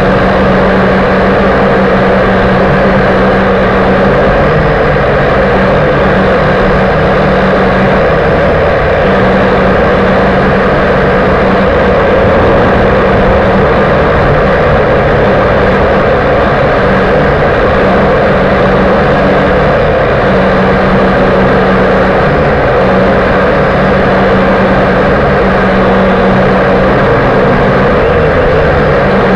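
Toy quadcopter's small electric motors and propellers whirring loudly and steadily in flight, close to the onboard microphone, with a slight wavering in pitch as the throttle shifts.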